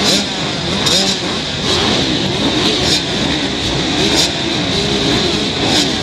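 Several 125cc motocross bikes racing, their engines revving up and down in overlapping, constantly shifting pitches.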